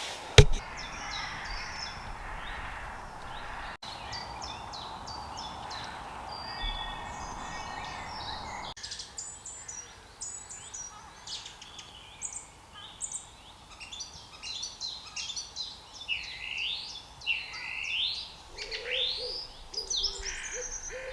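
Woodland birds calling in a few short spliced recordings: many quick high chirps and whistles, then longer swooping calls, with owl hoots among them. Low, evenly held hoot-like notes come near the end, and a faint steady hiss sits under the first part.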